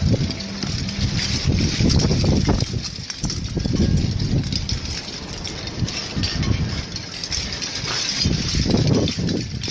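Wind buffeting the microphone in irregular gusts, a rumbling outdoor rush with no clear tone.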